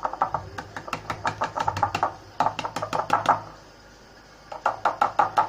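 Rapid sharp taps, several a second, in three bursts of one to two seconds each, with a short pause in the middle.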